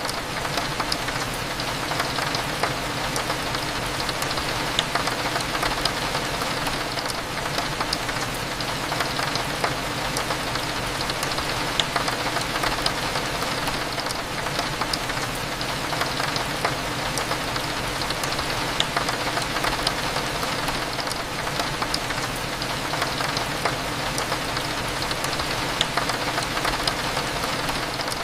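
Steady rain falling, with many small drops ticking against a window pane over a low steady hum.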